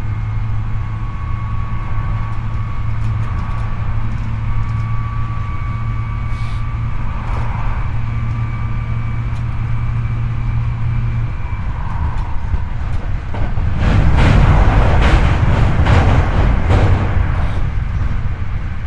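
Hankyu 8300 series commuter electric train running, heard from inside the car over its motor bogie: a steady low hum with a faint, steady high whine. About two thirds of the way in, a louder, rougher rumble with sharp clacks takes over for a few seconds, then eases back.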